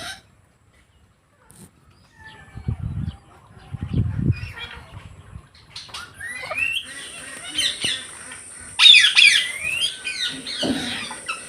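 Indian ringneck parakeet squawking: sharp, screechy calls sliding up and down in pitch start about six seconds in and are loudest a few seconds later. Before them come two low thuds.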